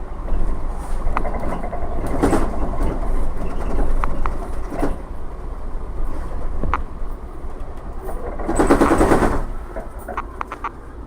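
Inside the moving MAZ-107.466 bus: its Mercedes-Benz OM 906LA inline-six turbo diesel runs under the ride noise, with frequent short rattles and knocks from the body. About nine seconds in, the noise swells louder for around a second.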